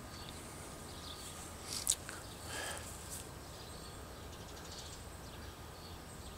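Quiet outdoor street ambience with faint bird chirps, and one sharp click a little under two seconds in.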